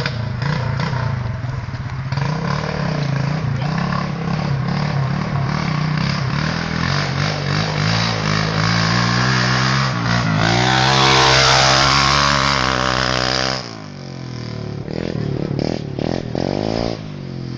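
Pit bike's small single-cylinder engine running, then revved up steeply and held high for about three seconds near the middle before the throttle snaps shut and the revs drop suddenly. A few short throttle blips follow near the end.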